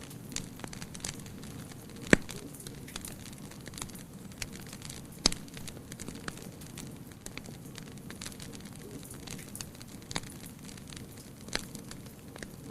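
Wood fire crackling: irregular sharp pops and snaps over a steady low hiss, with the loudest pops about two seconds in and again about five seconds in.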